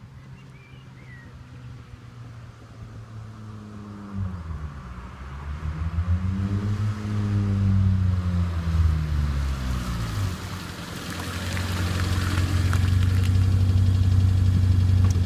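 1990 Mitsubishi Lancer's engine and exhaust running. It holds a steady low note at first, swings up and back down in pitch once in the middle over about five seconds, then runs louder and steady near the end.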